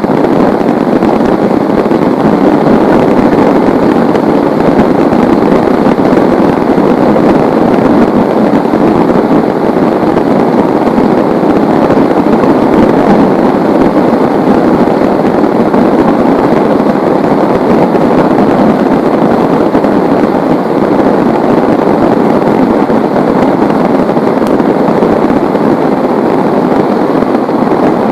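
Heavy rain pouring steadily, a dense, even hiss of drops.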